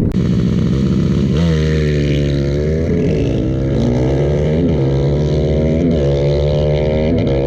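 Racing engines revving, more than one running at once, their pitch rising and dropping several times.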